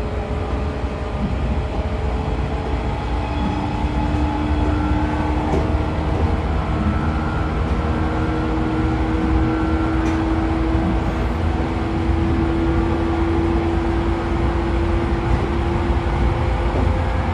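Running sound aboard the motor car of a 113 series electric train: its MT54 DC traction motors and gears whine over a steady rumble of wheels on rail. The whine rises slowly in pitch as the train gathers speed.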